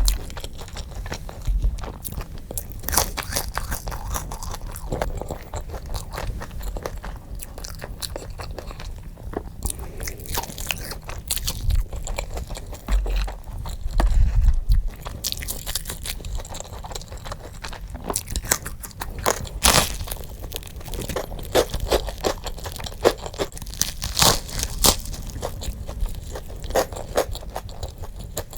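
Close-miked crunching and chewing as a person eats crisp food: a dense, irregular run of crunchy bites and chews, played sped up, with a few louder crunches along the way.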